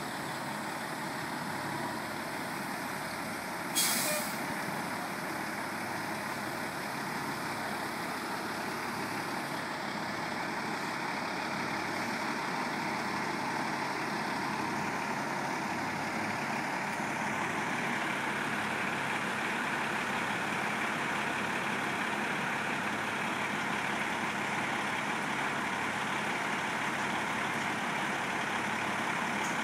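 Heavy crane's engine running steadily, rising a little in level partway through, with a short sharp hiss of air about four seconds in.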